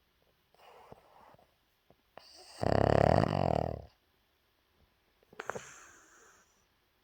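A sleeping puppy snoring: one loud, pulsing snore lasting over a second, a little past two seconds in, with softer breaths before and after it.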